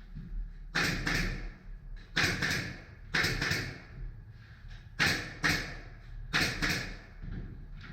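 Pneumatic nail gun (tacker) firing into wooden battens, a series of sharp shots, mostly in quick pairs about a second apart.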